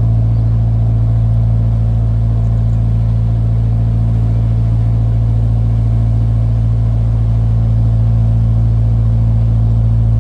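Narrowboat's diesel engine running steadily at cruising speed, a deep even hum that does not change.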